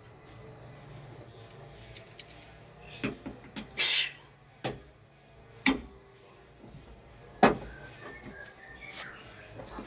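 Scattered sharp clicks and knocks of hand tools and metal parts being handled while working on a car door. The loudest is a short scrape about four seconds in, and single hard knocks come every second or two after it.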